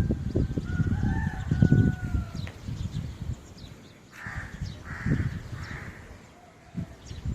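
A rooster crowing once, one long call that rises and then holds its pitch, over a low rumbling noise. About four to six seconds in come three short, rougher calls.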